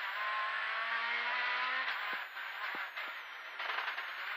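Citroën C2 R2 Max rally car's engine heard from inside the cabin, running hard at a steady pitch, then easing off about two seconds in with brief drops in pitch.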